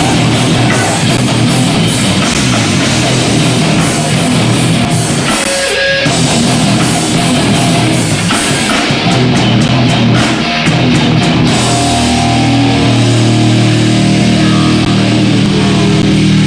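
Hardcore punk band playing live, loud distorted electric guitars and a drum kit. About twelve seconds in the drumming stops and a distorted guitar chord is left ringing out.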